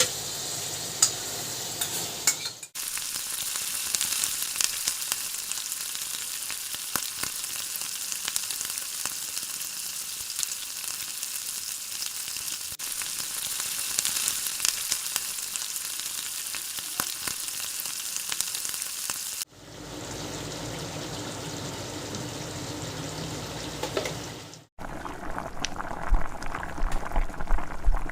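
Chicken stew frying in a pot, a steady sizzle with scattered clicks of a spoon stirring. After a few abrupt cuts, it is bubbling at the boil near the end.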